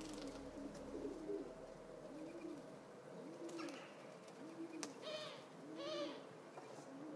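Alpaca humming: soft rising-and-falling hums repeated about once a second, with a few louder, higher hums in the second half.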